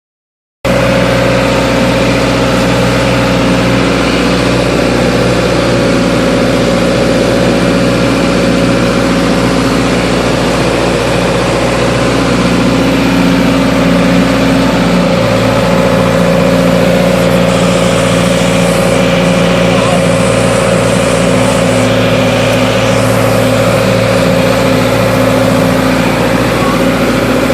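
Backhoe's diesel engine running steadily, its pitch shifting slightly about halfway through. A faint higher hiss comes and goes in the second half.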